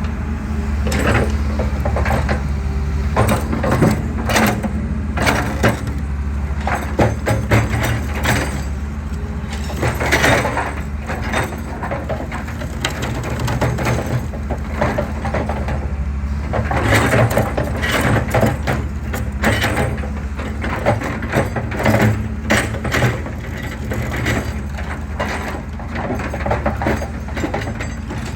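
An excavator's engine runs steadily while concrete cracks and crunches in irregular bursts as the machine crushes a concrete pillar.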